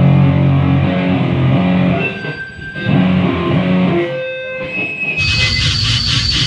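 Guitar music: held, ringing guitar notes, then a harsher, noisier section with a fast beat starting about five seconds in.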